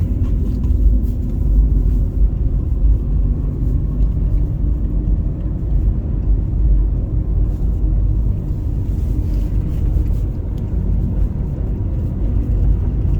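A car driving along, heard as a steady, even, low rumble.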